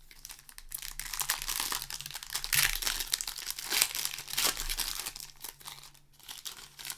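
Foil-plastic booster pack wrapper being crinkled and handled, a dense run of crackling that is loudest midway and dies down near the end.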